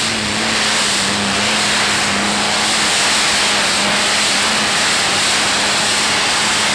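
Heavy modified tractor-pulling tractor running at full power under load while it drags the brake sled, a loud, steady, dense engine roar. It cuts off abruptly at the very end.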